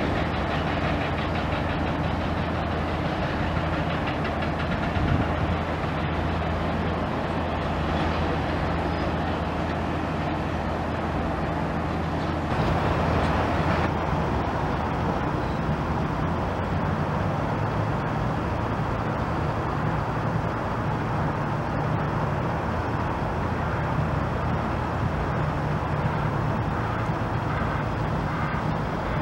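Large engine running steadily under a continuous heavy mechanical rumble, with a slight swell about twelve seconds in.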